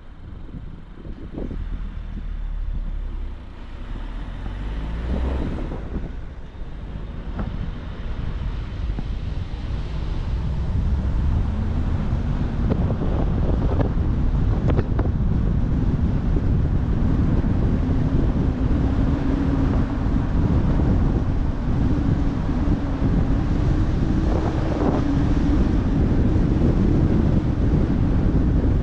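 Car driving: steady engine and road rumble with wind buffeting the microphone. Partway through, the engine drone grows louder and slowly rises in pitch.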